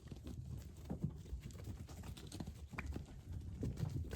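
Sheep moving about in a pen, their hooves knocking and shuffling irregularly.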